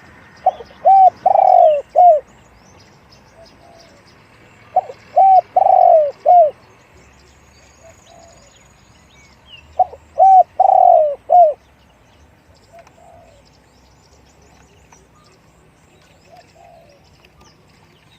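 Spotted dove cooing three times, about every five seconds: each phrase is two short coos, a longer coo and a short closing coo, deep-voiced. Faint chirps of small birds carry on in the background.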